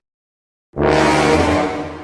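Dead silence, then about three-quarters of a second in a musical sound-effect sting cuts in abruptly and loud, with several held pitches and a bright hiss, fading as it goes.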